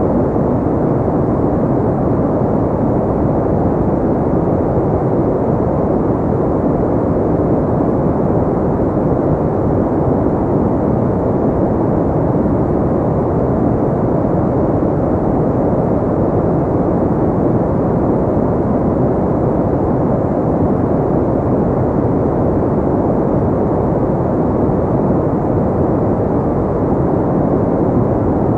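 Steady pink noise: an even, unchanging rushing hiss, with most of its weight low and little above the upper mids.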